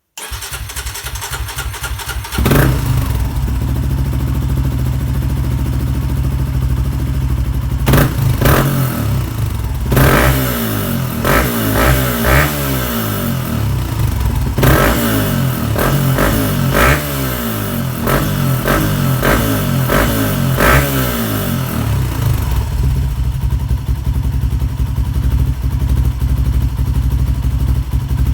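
Suzuki Gixxer 250's single-cylinder engine through an aftermarket Yoshimura GP muffler, being started and then free-revved in neutral. It catches about two seconds in, idles, gets a series of short, sharp throttle blips through the middle, and settles back to a steady idle near the end.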